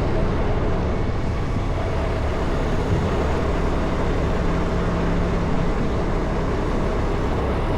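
Semi-truck's diesel engine running steadily, heard from the cab, with a low rumble and a faint steady tone.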